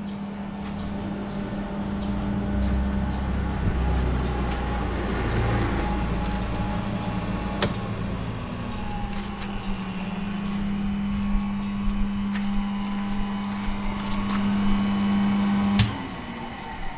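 FANUC industrial robot arm running under power: a steady motor hum with a low rumble that swells and fades, a few clicks, then the hum cuts off suddenly with a click near the end.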